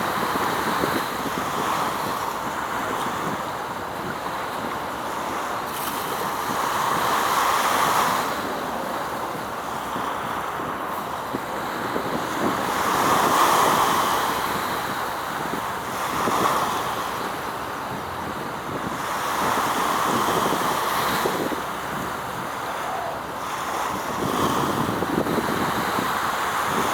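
Waves washing in against the shore, with wind: a steady rushing noise that swells and falls back every few seconds.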